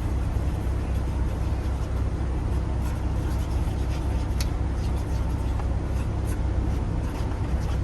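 Steady low drone of a tractor-trailer heard from inside the cab while it drives, with a few faint light clicks.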